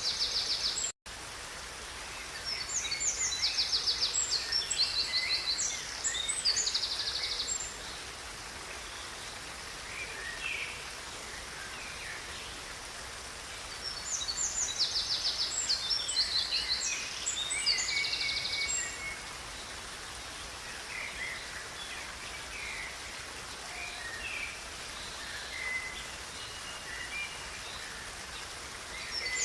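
Songbirds singing in bursts of fast, rapidly repeated high notes, with two long loud phrases about ten seconds apart and softer calls between, over the steady rush of a river. The sound cuts out for a split second about a second in.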